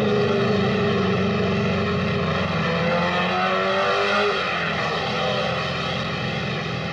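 Racing car engines running at high revs, a steady drone whose pitch slides slowly down about three to four seconds in.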